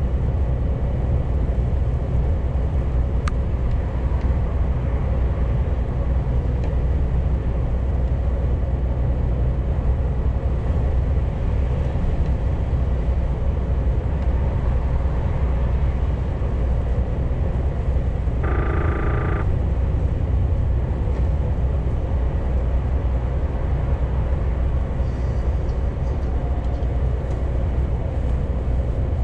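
Scania G410 CNG truck's 12.7-litre methane engine and road noise while driving, a steady low drone. A short pitched tone sounds for under a second about two-thirds of the way through.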